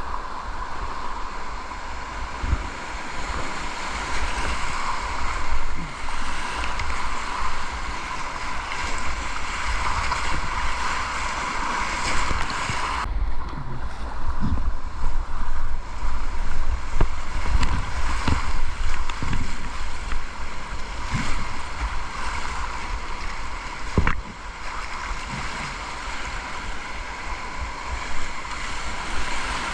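Rushing river water heard from a kayak, with wind buffeting the microphone and the occasional knock. The sound changes abruptly about 13 seconds in.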